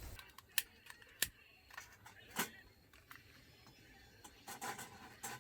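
A few scattered sharp clicks and light knocks, like objects being handled, over faint background noise.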